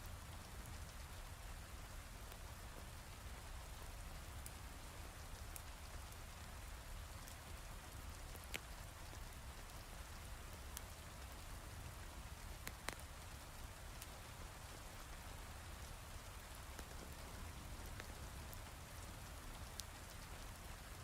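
Heavy rain falling steadily, mixed with sparse sharp pops from a crackling wood fire, two of them louder near the middle.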